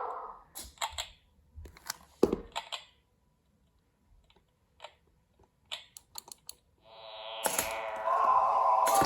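Scattered mechanical clicks and taps, one sharp click about two seconds in. Near the end an electronic sound effect from the Arduino laser game's speaker starts: a falling sweep that turns into a buzzy tone.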